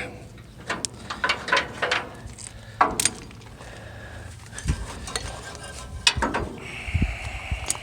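A tie-down strap being taken off a tarp: irregular metallic clinks and knocks of its hook and buckle, with crackling of the weathered plastic tarp, a few dull thuds and a brief squeak near the end.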